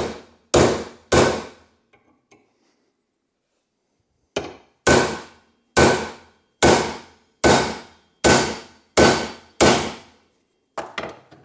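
Hammer blows driving a seized steel hinge pin out of a Volvo 142 door hinge, each with a short metallic ring. There are three blows, a pause of about three seconds, then a steady run of eight more at about one a second. The pin is very tight but moving.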